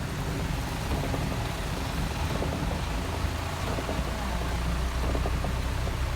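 Heavy rain falling as a steady hiss, with the low, steady hum of a vehicle engine running beneath it.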